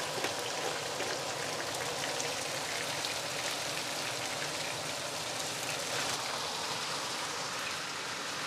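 Food frying in hot oil in a pan: a steady, dense sizzle full of fine crackles.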